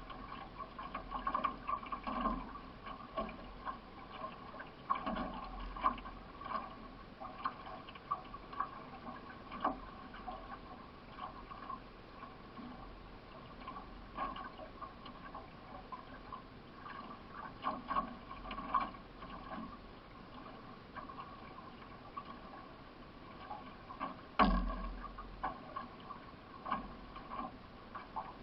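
Water splashing and gurgling against a solo racing canoe as it is paddled, with irregular splashes from the paddle strokes and one sharper knock near the end.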